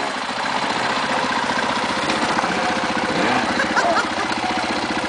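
KTM 530 enduro bike's single-cylinder four-stroke engine running at steady low revs, with an even, rapid firing beat.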